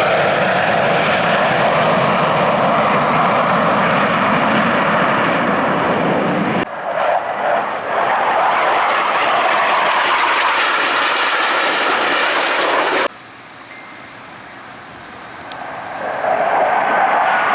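Jet noise from Blue Angels F/A-18 Super Hornets flying their display. The sound changes abruptly about six and a half seconds in and again about thirteen seconds in, where clips are joined. After the second join it is much fainter, then grows loud again near the end as a jet approaches.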